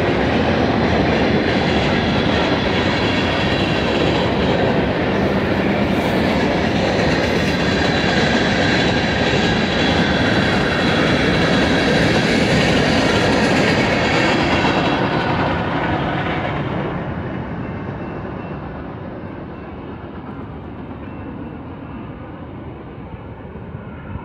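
Freight train cars, covered and open hoppers, rolling past on the rails with steady wheel noise. The last car goes by about fifteen seconds in, and the sound fades away over the next few seconds.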